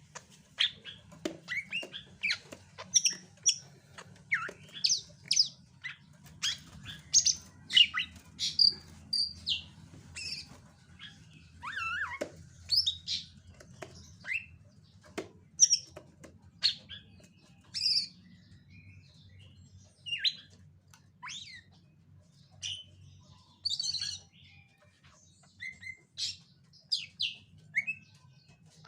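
Caged green leafbird (cucak ijo) giving a long run of short, sharp chirps and quick sweeping whistles, up to about two a second with a sparser stretch past the middle. It is the agitated calling of a bird in an over-aroused 'OB' state, which its keeper blames on master birds and fighting birds kept in the same house.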